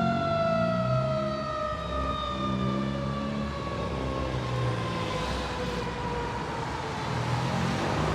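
Fire engine siren with one long, steadily falling wail as it winds down. The fire truck's engine and road noise grow louder about five seconds in.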